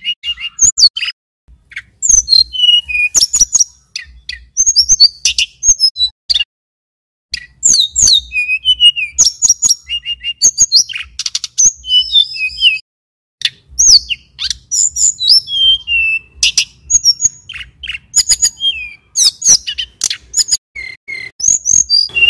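Male tledekan gunung (sulingan gunung) singing: rapid, high-pitched phrases of chirps, trills and quick up-and-down whistles, broken by short pauses.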